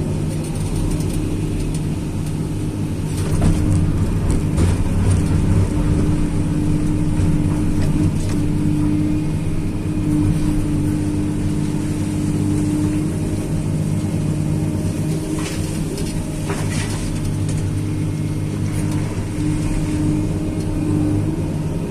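Tracked excavator's diesel engine running steadily under working load, with a few short clanks from the digging.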